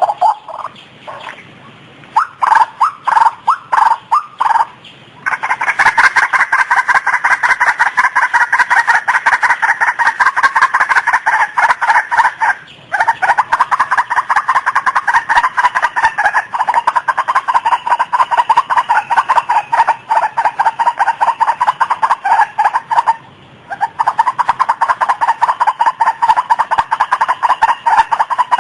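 White-breasted waterhen (ruak-ruak) calling: a few separate notes at first, then a fast, unbroken run of repeated notes, broken twice by brief pauses.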